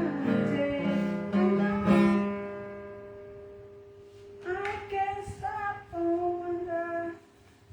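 Acoustic guitar strummed with singing, ending on a chord that rings out and fades. Then, from about halfway in, a few short, high, wavering voice-like calls.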